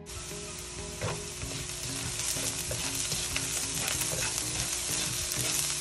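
Food sizzling as it fries in hot oil in a cooking pot, with a utensil stirring and knocking against the pot now and then. The sizzle starts suddenly.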